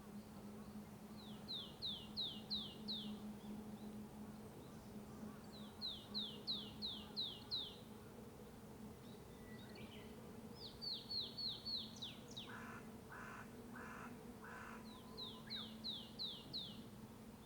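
A songbird repeating a short song of five or six quick, falling high notes every few seconds, with four harsh calls from another bird about two-thirds of the way through. A steady low hum of distant traffic runs underneath.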